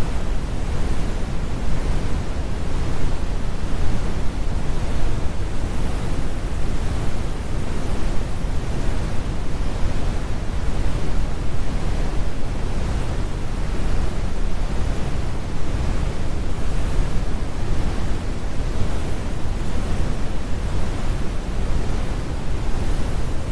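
Heavy brown noise: a steady, deep rumbling hiss with its energy in the low end and little in the highs, even and unbroken throughout.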